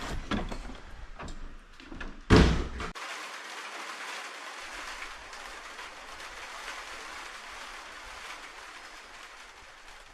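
A single loud thump a little over two seconds in, followed by a steady, even hiss.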